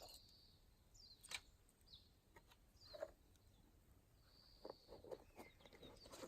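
Faint bird calls: short whistles and quick falling chirps, heard a few times. There are a few faint snaps among them, one about a second in, one near the middle and a quick run near the end.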